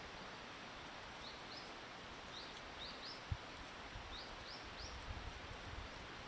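A small bird calling over steady outdoor background noise: short, high chirps that slide upward, in three runs of two or three notes. There is a single low thump about three seconds in.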